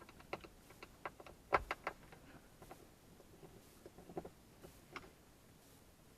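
Irregular small clicks and taps of a screwdriver working at a dash-panel screw, with a cluster of sharper knocks about a second and a half in.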